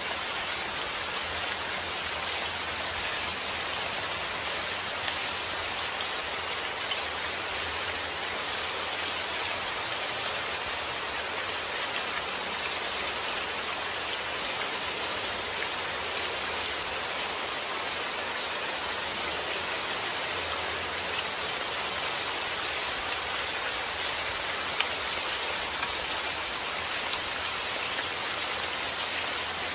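Steady, gentle rain falling, with many small drops pattering on a surface.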